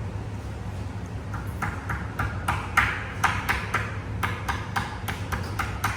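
A quick run of light, ringing clinks, about three to four a second, starting about a second in, over a steady low hum.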